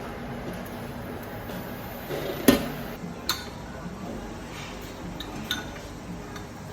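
Breakfast tableware: plates, glasses and cutlery clinking, with one sharp clink about two and a half seconds in, another just under a second later, and a few lighter ones after, over a steady room background.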